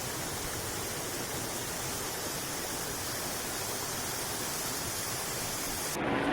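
Bridal Veil Falls' water pouring down the cliff: a steady, even rush of falling water. Near the end it cuts off abruptly and gives way to a lower, steadier hum.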